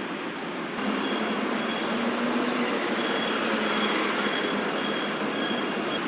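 Steady roar of city traffic, getting louder about a second in, with a faint, repeated high note over it in the second half.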